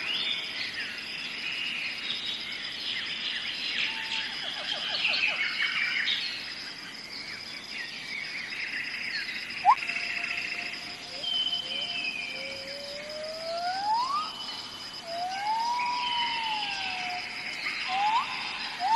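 Rainforest birds calling over a steady, high insect drone. There are busy chirps and trills in the first half, then clear rising and arched whistles in the second half.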